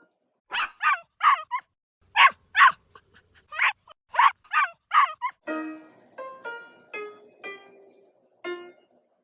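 A dog barking about ten times in quick short bursts, followed by a few spaced notes of music.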